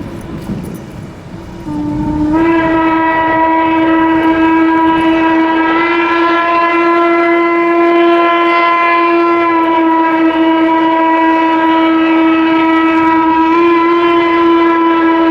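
A steam locomotive's whistle blows one long blast. It comes in about two seconds in, slips up to a steady pitch almost at once, and holds loud for about thirteen seconds. A low rumble comes before it.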